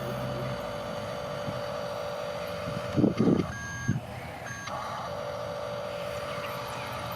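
Steady electric whine of a radio-controlled construction toy's small motors, broken about three seconds in by a few loud knocks and two short electronic beeps, then resuming.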